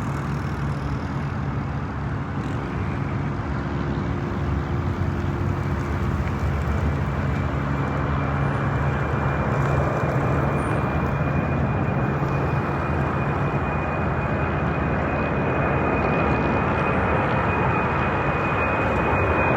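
Boeing 747 freighter's jet engines running, a steady roar that slowly grows louder, with a thin high whine coming in a few seconds in and holding.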